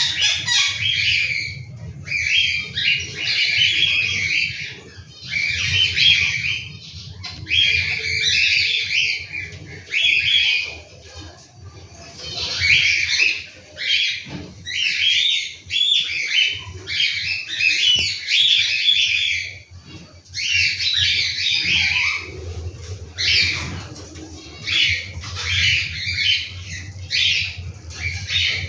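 Cockatiel chicks calling in harsh, raspy bursts of a second or two, one after another with short pauses, the typical begging calls of young cockatiels.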